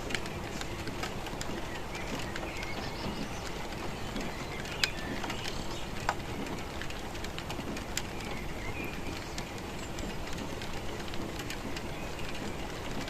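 Steady rain falling, with heavier drops striking close by as sharp taps every second or so. A bird calls faintly now and then.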